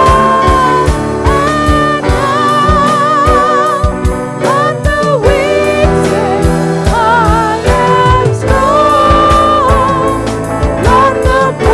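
Worship music: a solo voice singing with vibrato over a band with drums, bass and guitar keeping a steady beat.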